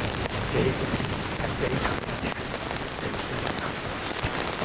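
Hurricane wind and rain making a steady, dense rushing hiss, with gusts buffeting the microphone.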